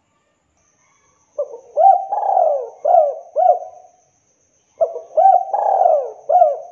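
Spotted dove (tekukur) cooing: two song phrases of several arching notes each, the second beginning about three and a half seconds after the first.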